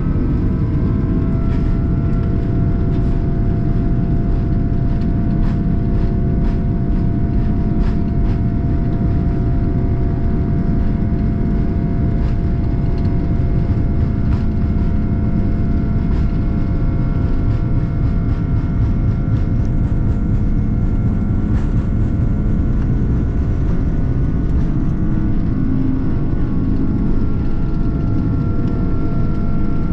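Airbus A330-343's Rolls-Royce Trent 700 engines running steadily, heard from inside the cabin: a loud low rumble with a steady whine of several tones that settle just after the start, and faint scattered ticks.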